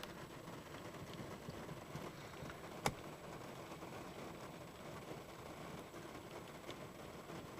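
Steady heavy rain on a truck, heard from inside the cab, with one sharp click about three seconds in.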